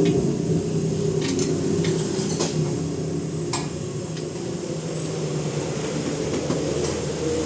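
A steady engine-like mechanical hum with a handful of light, sharp metallic clinks scattered through it, typical of tools and parts being handled in a workshop.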